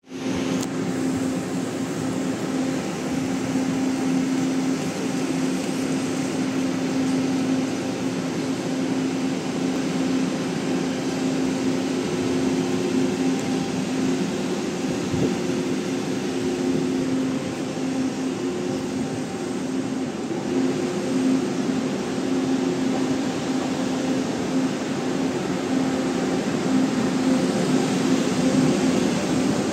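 Steady hum of an electric train, with one constant low tone over an even rumble.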